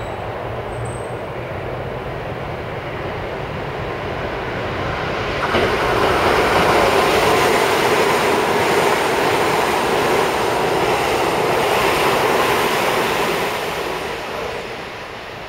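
A Keikyu electric train passing through the station at speed without stopping: the rumble and rail noise build, grow sharply louder about five and a half seconds in, hold, then fade near the end.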